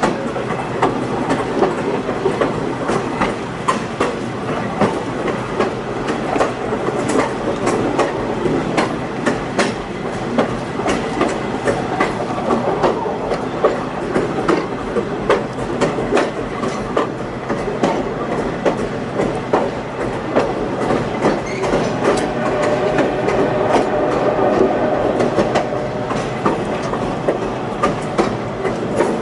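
Passenger train rolling along, its wheels clicking over the rail joints in an irregular patter above a steady rumble of the cars.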